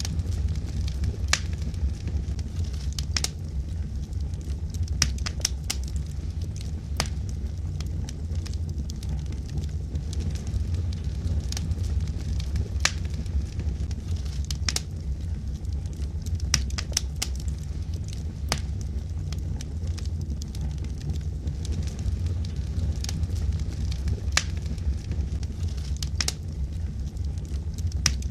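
Wood fire burning in a fireplace: a steady low rumble of flames with irregular sharp crackles and pops from the burning logs, several every few seconds.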